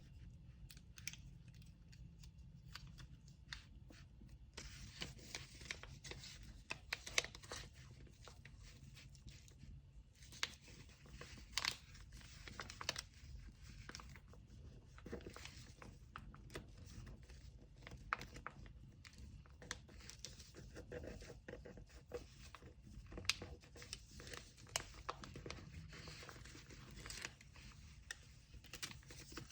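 Kraft paper rustling and tearing as a parcel is wrapped by hand, with many small clicks and taps. It is quieter for the first few seconds.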